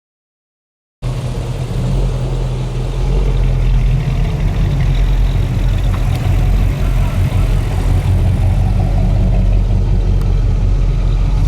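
Car engine running at low speed with a steady, deep exhaust note, cutting in abruptly about a second in.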